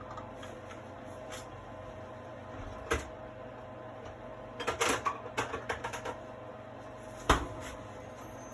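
Kitchen handling sounds: scattered clicks and knocks of utensils and containers over a steady low hum, with a quick clatter about halfway through and a sharp knock near the end.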